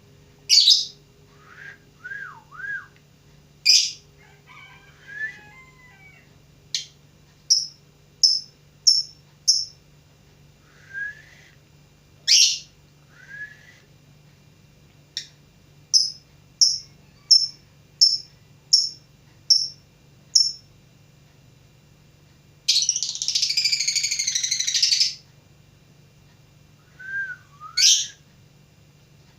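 Lovebird calling: sharp high shrieks, two runs of quick repeated chirps about two a second, and a few lower slurred whistles. About two thirds of the way in comes a harsh chattering trill lasting about two and a half seconds.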